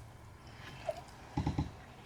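Soft mouth noises of someone chewing food, with a few short low hum-like sounds about a second and a half in.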